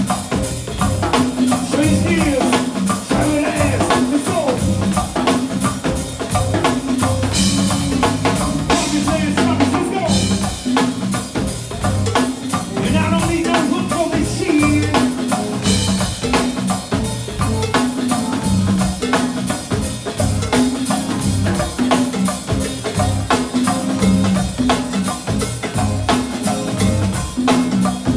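Live band music with no vocals: a drum kit keeping a steady, busy beat over a repeating bass line and percussion.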